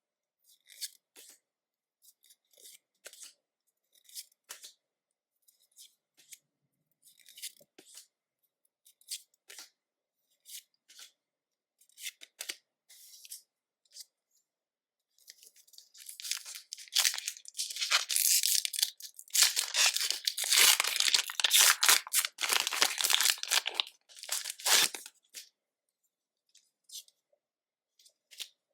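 Trading-card handling gives sparse light taps and rustles. Then, from about 15 to 25 seconds in, a foil Pokémon booster-pack wrapper crinkles and tears loudly as it is ripped open.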